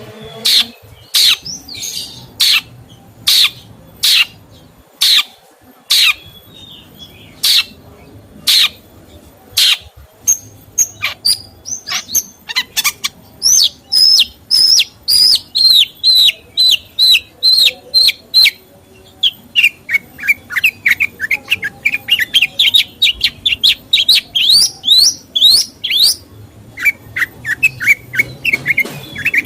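Songbird singing loudly: sharp, separate call notes for about the first ten seconds, then fast runs of short chirps, first gliding down a little in pitch, then a long series that climbs steadily higher.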